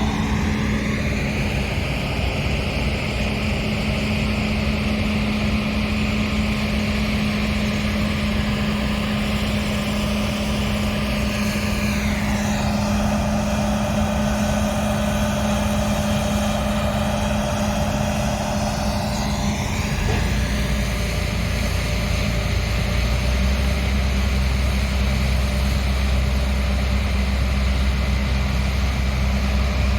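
Combine harvester running in the field, a steady drone of engine and threshing machinery. Its pitch sweeps down about twelve seconds in and back up near twenty seconds, where the low hum also changes.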